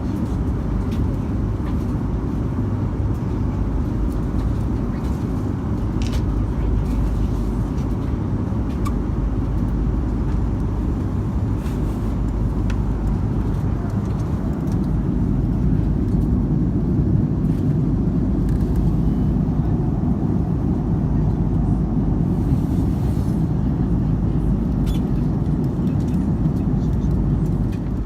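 Steady low rumble of cabin noise inside an Airbus A330-200 airliner, the engines and airflow heard from a passenger seat, with a few faint clicks.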